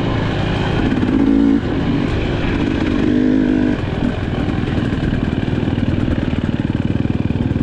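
Two-stroke GasGas EC300 dirt bike engine under riding load. It revs up briefly twice in the first few seconds, then runs at low revs with its firing pulses audible.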